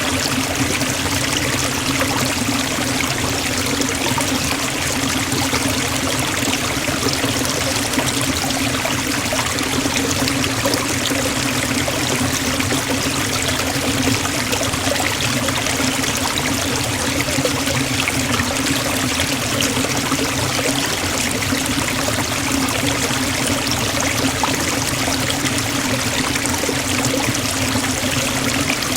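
Forest waterfall: a steady, unbroken rush of falling and splashing water.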